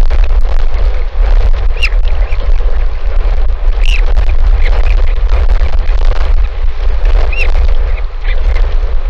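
Strong wind buffeting the microphone in a loud, steady rumble, with a handful of short, high bird chirps, each rising and falling, spaced a second or two apart.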